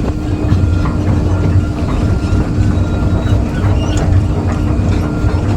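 Excavator's diesel engine running steadily with a constant hum, with a few scattered knocks as it works at the concrete.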